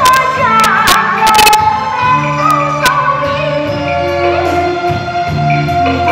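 A woman singing over instrumental accompaniment, with a few sharp percussive clicks in the first second and a half.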